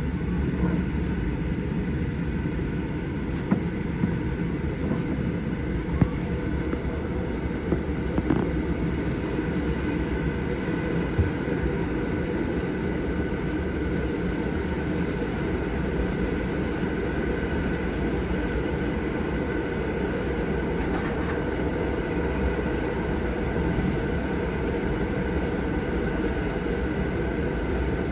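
Passenger train running, heard from inside the carriage: a steady low rumble of wheels on the track with a faint steady whine over it, and a few sharp clicks in the first dozen seconds.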